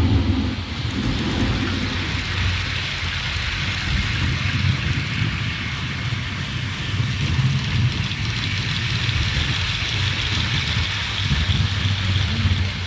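Storm sound effect from a model-railway thunder-and-lightning unit: a steady rain hiss over a low, rolling thunder rumble.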